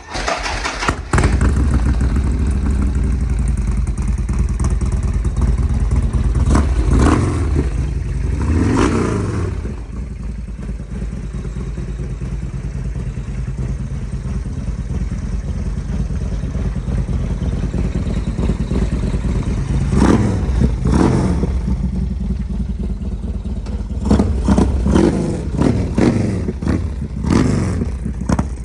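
Harley-Davidson Twin Cam V-twin engine through a DND exhaust pipe, starting up and running, with several revs that rise and fall in pitch.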